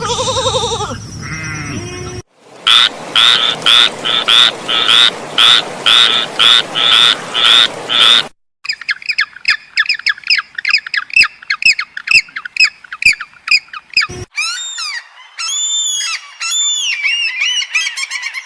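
A run of different animal calls, mostly birds, one after another. First comes a pitched call. Then a steady series of loud calls about two a second, then rapid chirping, and near the end a string of arching calls.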